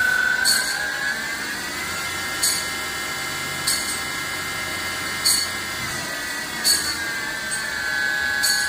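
CNC machine spindle running with a steady high whine that rises in pitch about a second and a half in and drops back near the end. Six short, sharp, hissy ticks come at uneven spacing of one to two seconds.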